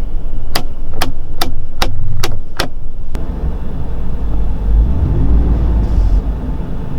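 2017 Ford Raptor's twin-turbo 3.5-litre V6 running under way, a steady low rumble that swells and rises a little about five seconds in. Seven sharp clicks, evenly spaced, come through in the first three seconds.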